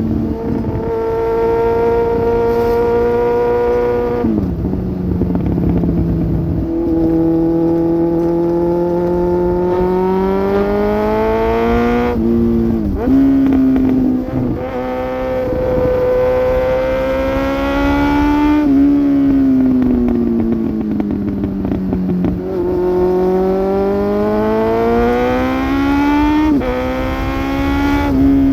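2002 Suzuki GSX750F's inline-four engine through a Black Widow aftermarket exhaust, riding under load. The pitch climbs as it accelerates and drops suddenly at gear changes about four times. It falls away gradually once in the middle as the throttle eases, then climbs again.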